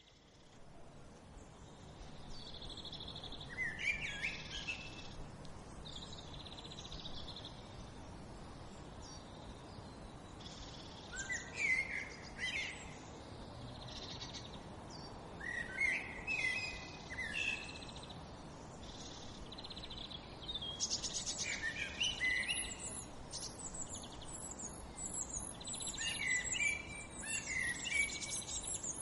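Birds singing: short song phrases repeated every four to six seconds over a steady background hiss, with fast, high-pitched chirping in the last several seconds.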